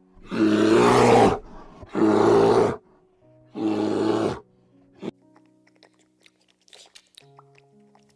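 Three loud, harsh animal calls, each under a second long, a little over a second apart, followed by faint sustained music notes.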